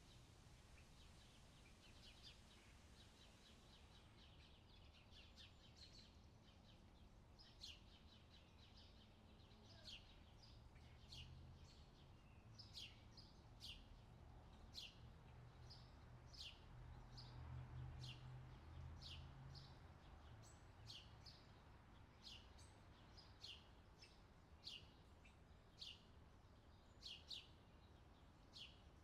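Faint outdoor summer ambience: a bird chirping over and over, short high chirps about once a second, over a low steady rumble that swells briefly in the middle.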